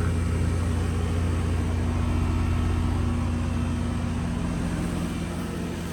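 Outdoor Goodman air-conditioning condenser unit running: a steady low electrical hum from the compressor with a constant tone above it and the fan's air noise, easing slightly near the end.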